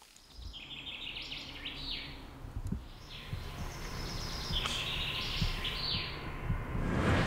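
A songbird singing two quick trilled phrases over a low steady rumble, with a swelling whoosh near the end.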